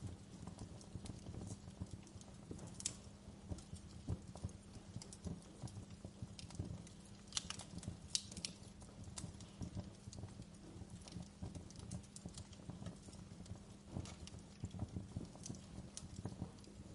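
Wood fire in a fireplace crackling: irregular sharp snaps and pops over a low steady rumble of the flames, with a few louder snaps about three and eight seconds in.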